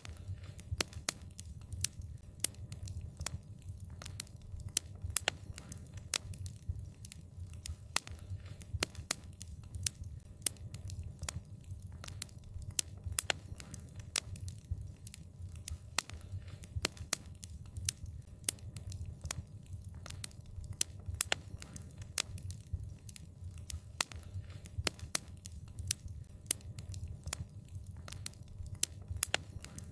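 Wood fire crackling: frequent, irregular sharp pops and snaps over a steady low rumble of the flames.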